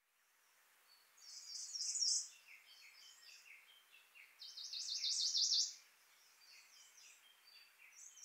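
A songbird singing: three loud phrases of fast repeated high notes, each about a second long, with softer single notes between them, over a faint steady background hiss.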